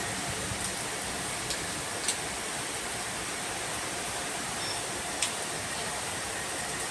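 Steady rain falling, an even hiss, with a few sharp ticks of drops striking something hard.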